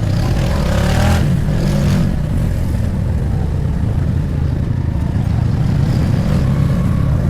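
Motorcycle running on the road during a ride: a steady low rumble of engine and road noise, with a brief louder burst of higher sound about a second in.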